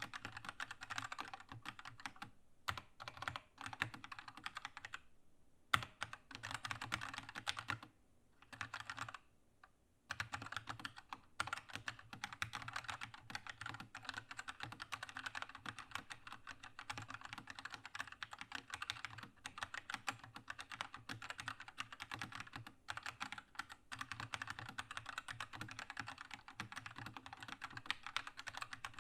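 Keychron K2 mechanical keyboard with red linear switches being typed on: fast, continuous key clacks. There are a few short pauses and one louder key strike in the first third, then steady fast typing.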